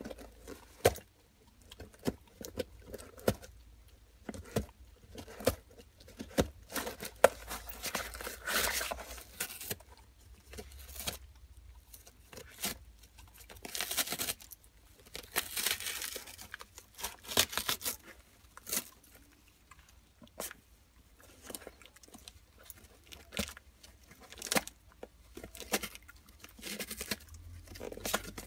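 A dog ripping and chewing up a cardboard box: irregular sharp snaps and crinkles, with longer tearing rips about eight seconds in and again around fourteen to sixteen seconds in.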